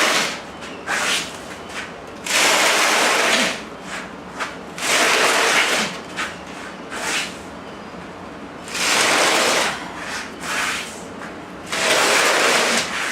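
A heavy engine being dragged across the ground in repeated tugs: about five rough scraping rasps, each about a second long, every few seconds.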